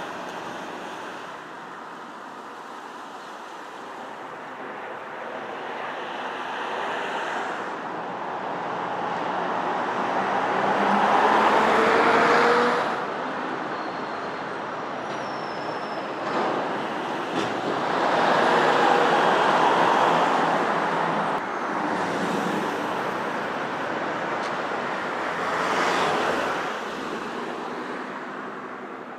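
Road vehicles driving past, mostly tyre and wind noise: three passes swell and fade, about ten seconds in, near the middle and near the end.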